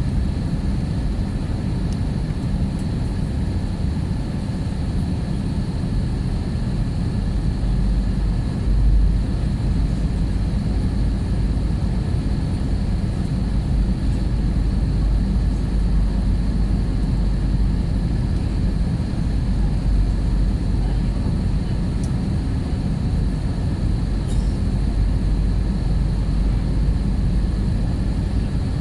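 Steady low rumble of a Wizz Air Airbus A320-family jet airliner in flight, heard from inside the cabin, with a faint steady whine above the roar of engines and airflow.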